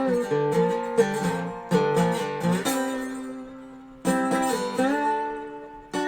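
Dobro resonator guitar played with a slide: plucked chords struck every second or so that ring and fade, with short slides up or down in pitch between some of them.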